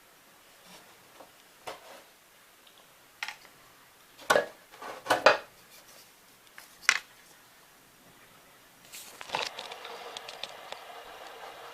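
Light clicks and knocks of a model aeroplane and its parts being handled, loudest as a few sharp knocks around four to seven seconds in. About nine seconds in, a steady buzzing hum starts and keeps going.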